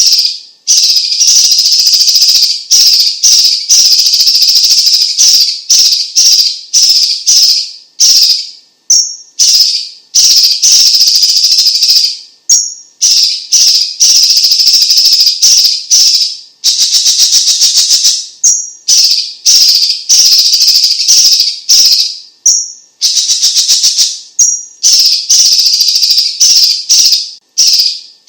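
Chinese green leafbird (cucak ijo cina, cucak cungkok) singing a loud, rapid chattering song of dense high-pitched phrases, each a second or two long with brief pauses between, some of them fast, even trills.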